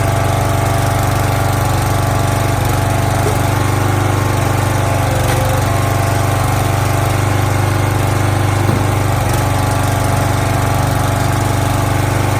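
Small gasoline engine of a log splitter running at a steady speed.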